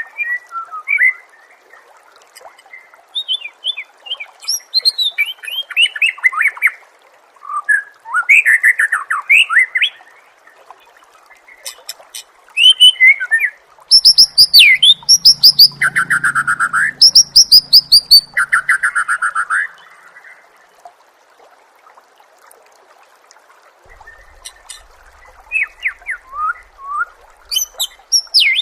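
Songbird singing a string of varied whistled and chattering phrases. Loud, rapid trills of repeated notes come in the middle, followed by a short lull before the song resumes.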